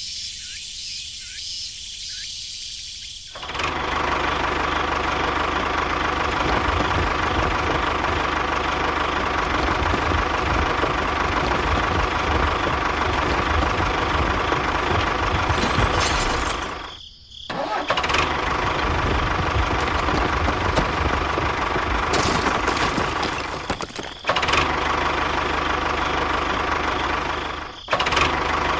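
A small engine runs steadily, coming in loud about three and a half seconds in. It cuts out abruptly a few times and resumes at once.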